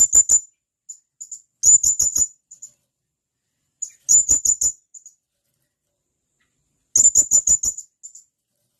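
Blue-crowned hanging parrot (serindit) calling sharply: four bursts of rapid, very high-pitched notes, each a quick run of four to six notes, a burst every two to three seconds, with a few softer single notes between.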